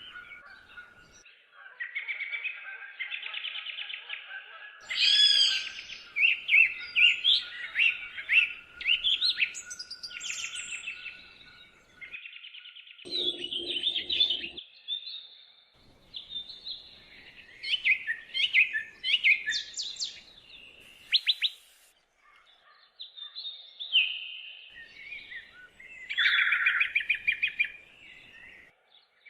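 Several songbirds singing and calling over one another, a busy mix of chirps, whistled notes and quick trills.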